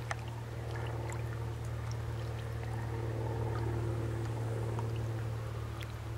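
Steady low engine drone of a boat, with scattered small clicks and light water sounds over it.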